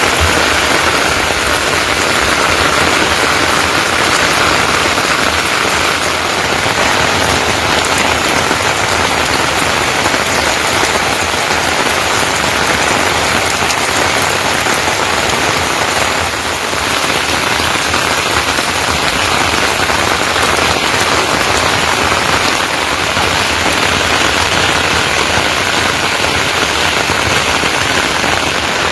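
Loud, steady rain falling, an even hiss of drops with no let-up.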